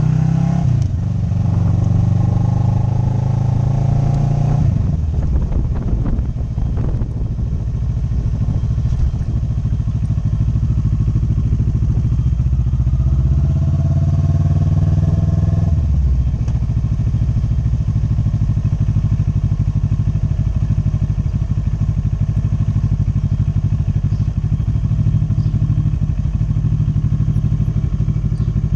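Motorcycle engine running under way. It rises in pitch as it accelerates, drops sharply about five seconds in and again around sixteen seconds in, in the way of upshifts, then runs steadily.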